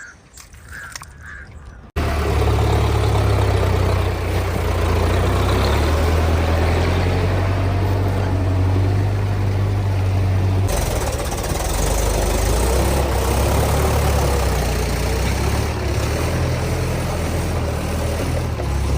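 Diesel tractor engine running loud and steady, cutting in abruptly about two seconds in. The engine note changes suddenly near the middle.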